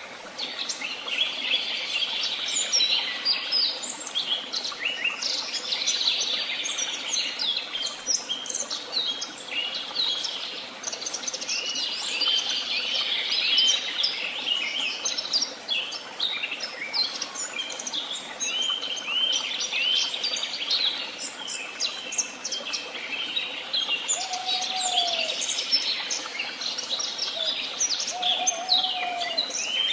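Several songbirds singing at once in woodland: a dense, continuous chorus of overlapping high chirps and trills. A lower, short call sounds twice near the end.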